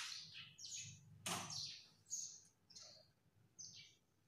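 Small birds chirping faintly, a short high chirp about every half second, some falling in pitch, with one sharper, louder chirp or click a little over a second in.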